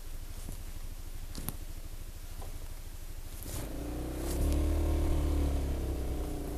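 Honda SH 300i scooter's single-cylinder engine idling with an even low pulse, then revving up about three and a half seconds in and easing back. A sharp click sounds about one and a half seconds in.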